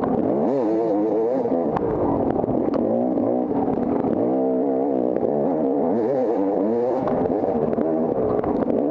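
Dirt bike engine revving up and down repeatedly, the pitch rising and falling every second or so as the throttle is worked, with scattered sharp clicks and knocks over it.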